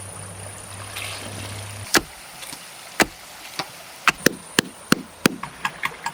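A low steady hum that stops about two seconds in, followed by a run of sharp knocks, at first a second apart and then coming faster and more irregularly.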